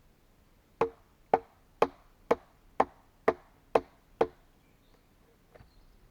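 Eight sharp, evenly spaced blows of a hand tool striking wood, about two a second, then they stop.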